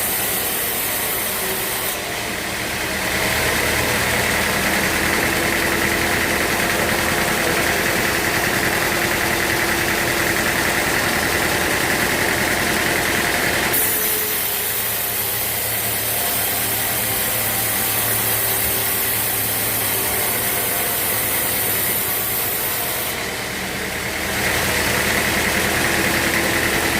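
Sawmill machinery running steadily while sawing teak logs, the sound changing about 2 seconds in, again around the middle, and again near the end as the saw's load changes.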